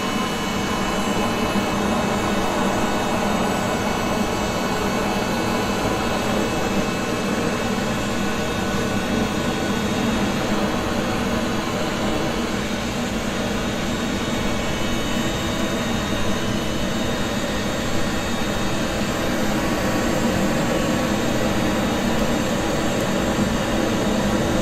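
Looftlighter electric fire lighter's fan blowing superheated air in a steady whoosh with a faint motor whine, held on the logs to set the wood alight.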